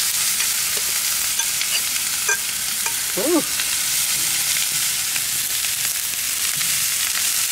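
Cauliflower and zucchini pieces, coated in oil and pork-rind crumbs, sizzling steadily on a hot flat-top griddle, with scattered light pops.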